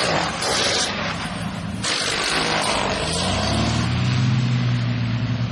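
Airplane engine noise with rushing wind. About three seconds in, a low engine tone comes in and rises in pitch.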